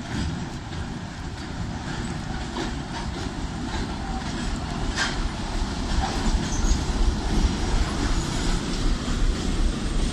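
A train running past with a steady rumble and scattered sharp clicks from the wheels, one strong click about five seconds in; the sound builds slightly towards the end.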